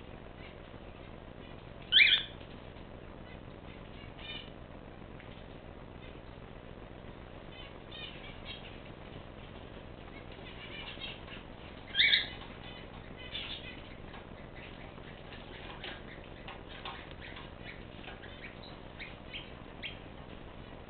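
Pet cage birds calling: two loud, short, sharp calls about ten seconds apart, with scattered faint chirps, scratching and wing rustling between them.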